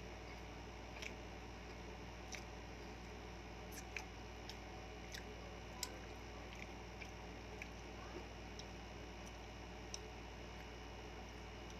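Faint eating sounds of someone chewing sisig with rice: about a dozen short, scattered clicks and smacks of the mouth, over a steady low hum.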